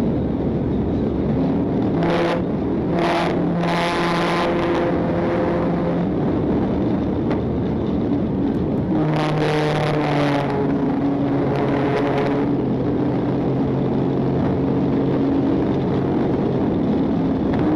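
Pursuit Dodge Charger at very high speed, heard from inside: steady engine, tyre and wind noise, with the engine note coming up twice for a couple of seconds each.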